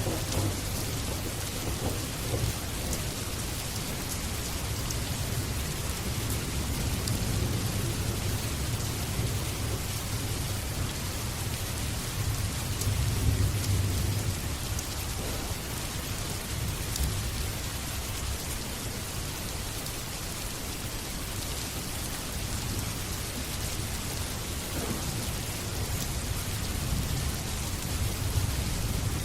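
Steady rain with drops pattering on surfaces, under low rolling thunder that swells and fades several times.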